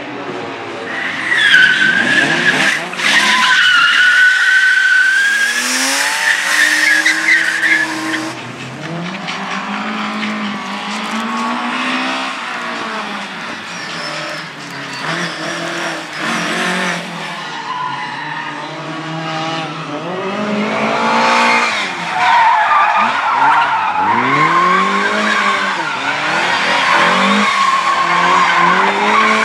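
Rally-style car driven hard through a slalom course, its engine revving up and falling back again and again with gear changes. Its tyres squeal for several seconds near the start and again during the last third.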